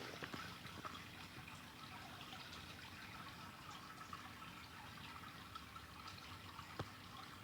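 Campfire crackling faintly, with scattered small pops and one sharper pop near the end.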